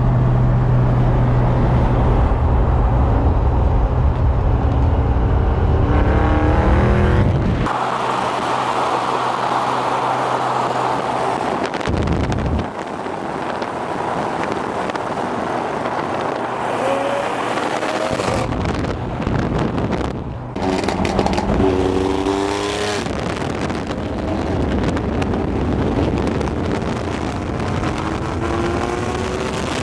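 Car engines running, first a steady idle, then several rising revs or cars accelerating past. The sound changes abruptly several times.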